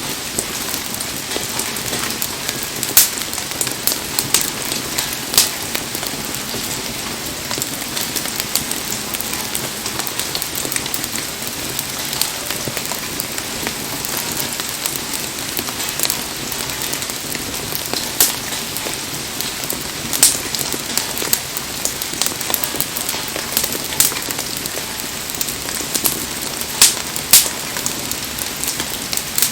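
Heavy rain falling steadily, with the wood of a campfire giving a sharp pop every few seconds.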